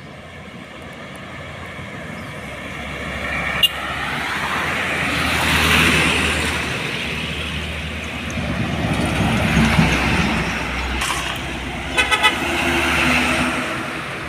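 Heavy trucks passing on a road, their engine and tyre noise swelling and fading as they go by, with a quick series of horn toots about twelve seconds in.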